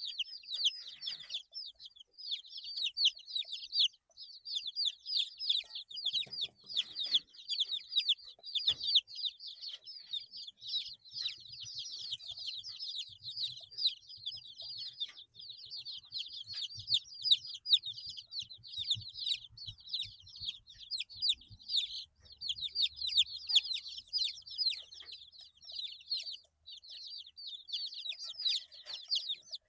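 A group of 8-day-old chicks peeping continuously, many short high-pitched calls overlapping in quick succession.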